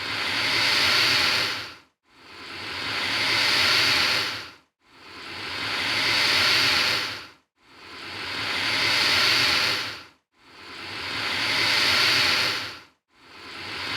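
Alligator hissing: a long, breathy hiss that swells and then fades over about two and a half seconds. It repeats evenly, about six times, with brief silent gaps between.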